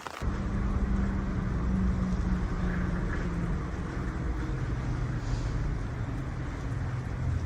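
A motor running with a steady low hum that begins abruptly just after the start.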